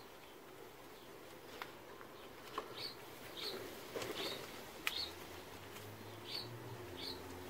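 A small bird chirping, short high calls repeated roughly every half second to second from about three seconds in, with a few sharp clicks and taps among them.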